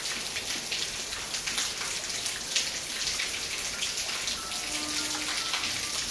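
Steady cyclone rain falling: a dense, even hiss of many drops.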